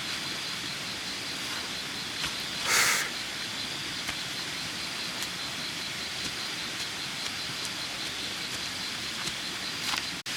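Steady outdoor forest ambience: an even hiss with a faint high pulsing tone, a brief loud rustle about three seconds in, and a few light clicks.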